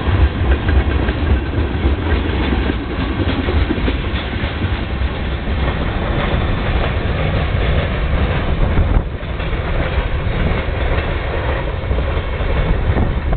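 Freight train cars rolling past, a steady heavy rumble with clatter of wheels over the rail joints, with a brief dip about nine seconds in.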